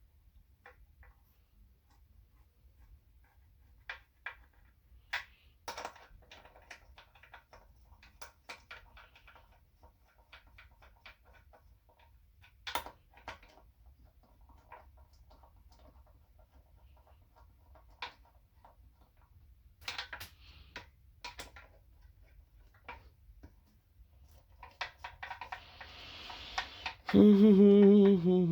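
Scattered light clicks and clinks of metal transmission parts and hand tools being handled while a Honda automatic transmission valve body is assembled on a bench. Near the end comes a much louder low-pitched hum lasting about a second and a half.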